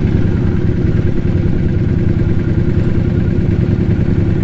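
Motorcycle engine running steadily at low revs, a fast even low pulsing, while the bike creeps forward.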